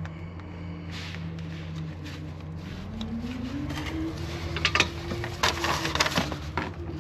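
A motor running steadily, its pitch rising about halfway through and then holding, with a cluster of sharp metallic clicks and scrapes near the end from tool work on a hose spigot.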